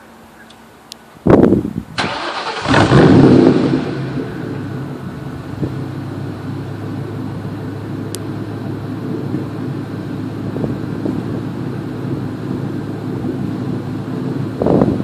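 1999 Mustang GT's 4.6-litre V8 starting through a muffler-delete exhaust, catalytic converters kept: the starter cranks about a second in, the engine catches and flares loudly, then settles into a steady idle. A short rev near the end.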